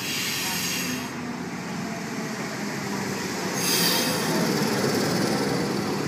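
V-set double-deck electric intercity train pulling into the platform and slowing past close by, its motors humming, growing louder as the cars go by. Bursts of high-pitched hiss come at the start and again about four seconds in.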